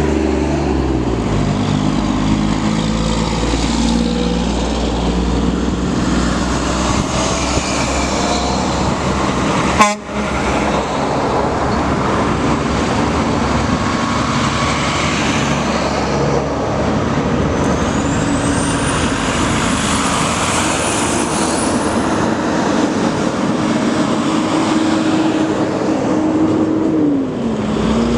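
Diesel trucks driving past in a convoy, engines and tyres running steadily. A single sharp knock comes about ten seconds in.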